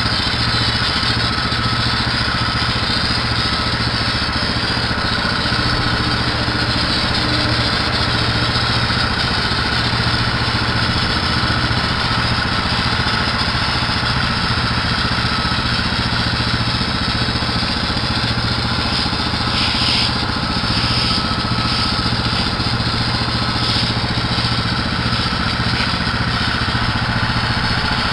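Small petrol engine running steadily at a constant speed, with an even mechanical hum.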